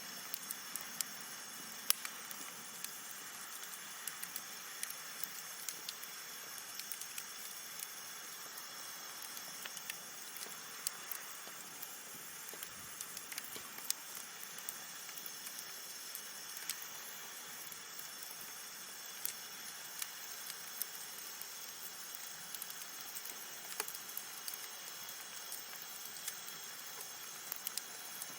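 Wood campfire burning: a steady soft hiss with frequent small crackles and pops scattered throughout, the sharpest snap about two seconds in.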